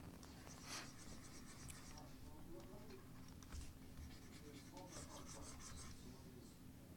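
Faint scratching of drawing strokes across a drawing surface, in short runs, loudest about a second in and again around five seconds in, over a faint steady hum.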